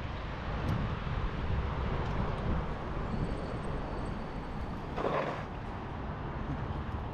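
Electric dirt bike riding on a road: steady wind and tyre rumble, with a faint high motor whine in the middle and a brief louder rush about five seconds in.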